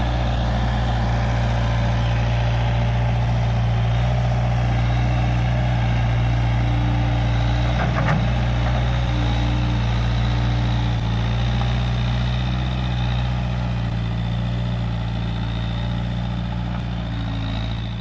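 Case 580G backhoe loader's diesel engine running steadily, with a single short knock about eight seconds in.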